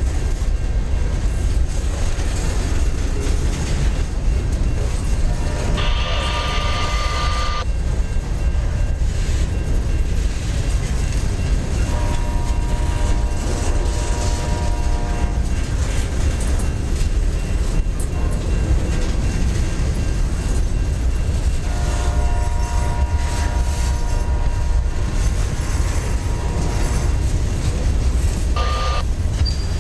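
Freight train of covered hopper cars rolling past, a steady heavy rumble of wheels on rail. Several drawn-out high tones rise over it: one about six seconds in, a longer one around twelve to fifteen seconds, the longest, about four seconds, past the twenty-second mark, and a short one near the end.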